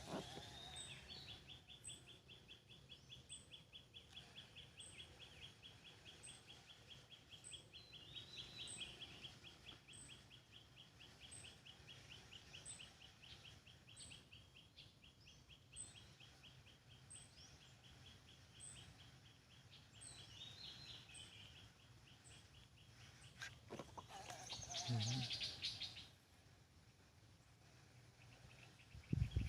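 Faint wild birds and insects calling: a steady rapid trill, with a high chirp repeating about once a second. A louder brief burst of sound comes near the end.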